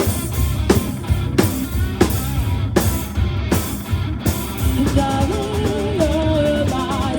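Live rock band playing a stretch with no singing: a guitar riff over a steady drum kit beat.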